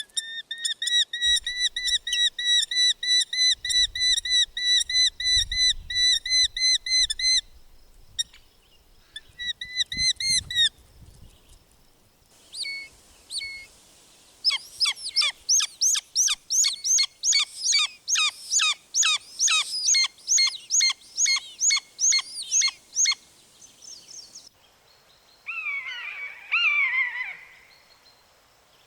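Bird calls: a run of clear repeated whistled notes, about four a second, for the first seven seconds, then after a pause a faster series of sharp notes, and a short tangled burst of calls near the end.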